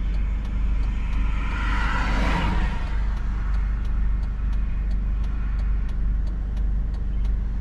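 Steady low rumble of a car's engine and road noise, with another vehicle swelling past about two seconds in.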